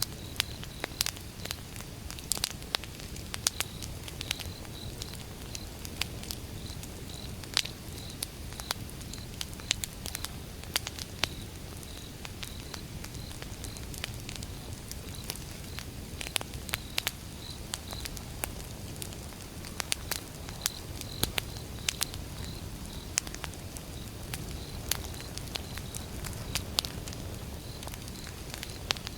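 Wood fire burning: logs crackling with frequent sharp, irregular pops and snaps over a steady low noise of the flames.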